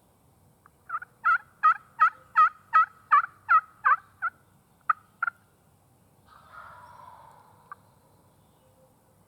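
A bird, a fowl, calling: a rapid series of about ten loud, evenly spaced notes, about three a second, then two or three more separate notes and a softer, noisier call.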